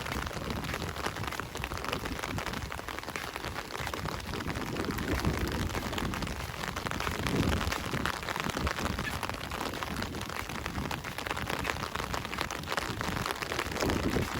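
Steady rain falling, a dense patter of drops, with a few short low rumbles coming and going.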